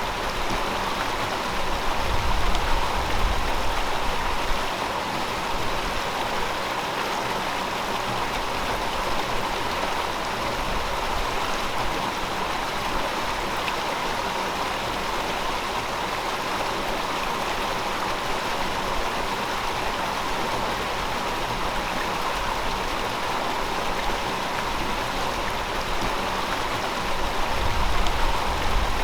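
A river flowing: a steady rush of running water, with deeper, louder surges about two seconds in and again near the end.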